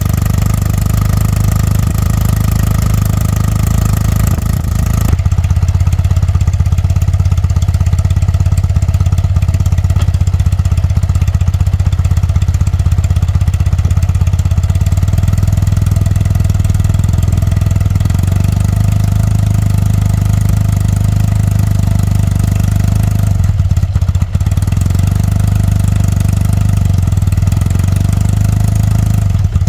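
BMW R100RS's air-cooled flat-twin (boxer) engine running steadily with a strong, even low hum.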